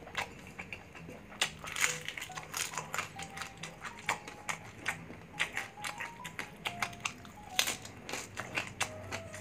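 Crunchy chewing of crispy fried pork belly (bagnet) with its puffed, crackling skin: many sharp, irregular crunches. Background music with a stepping melody and a low bass runs underneath.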